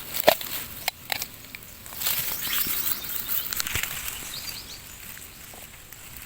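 Dry rustling and crackling, with a few sharp clicks in the first second.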